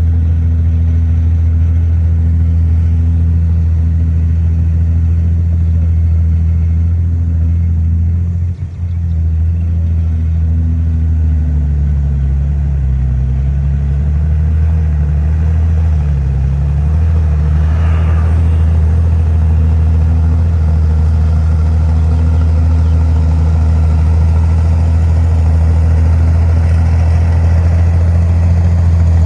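Heavy diesel engine of earthmoving machinery running under load; its pitch sags and recovers several times in the middle as the load changes.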